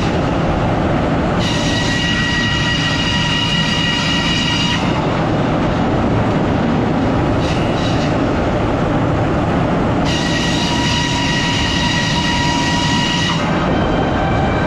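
Sawmill machinery running with a loud, steady rumble. Twice a high, steady whine sets in and holds for about three seconds.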